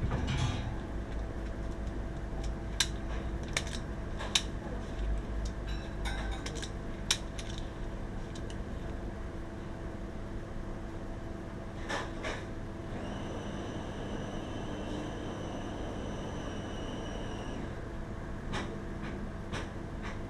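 Short metallic clicks and clinks of tools and parts being handled, about seven in all, over a steady mechanical hum. A steady high-pitched tone sounds for about four seconds past the middle.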